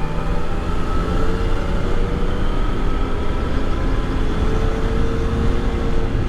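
Motorcycle engine running at road speed, with wind rumbling over the microphone. The engine note rises gently and eases off a little near the end.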